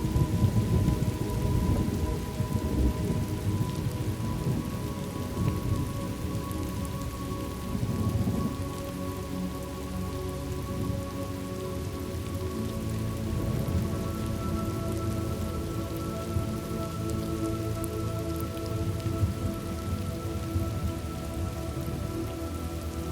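Steady rain with low rolling thunder, the rumble strongest in the first few seconds and again about eight seconds in. Soft sustained tones of an ambient pad run underneath, and a higher note joins about halfway through.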